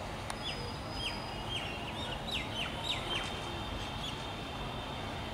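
Small birds chirping, a quick run of short repeated calls with a falling flick that thins out after about three seconds, over a steady low background rumble.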